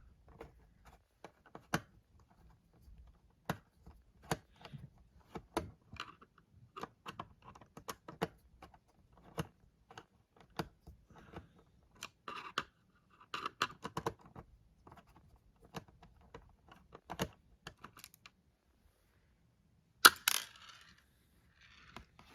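Irregular sharp clicks, taps and small knocks of a plastic laptop casing and its screws being handled and worked loose during disassembly, with a little scraping, and one loud crack or clatter about twenty seconds in.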